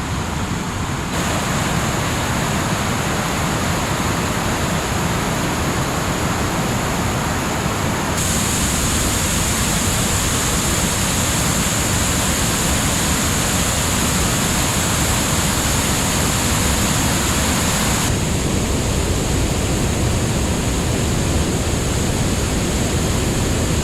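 Waterfall rushing: a loud, steady roar of falling water. Its tone shifts abruptly about a second in, around eight seconds and again around eighteen seconds.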